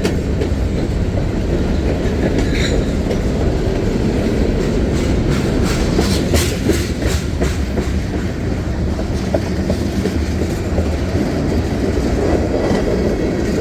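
Freight cars of a CSX mixed manifest train rolling past close by: a steady heavy rumble of wheels on rail. A run of sharp clacks over rail joints comes about five to seven seconds in.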